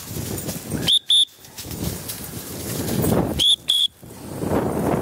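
Handler's dog whistle blown in short double toots, twice, about two and a half seconds apart, to direct bird dogs. Between the toots there is a steady rustling of movement through tall grass.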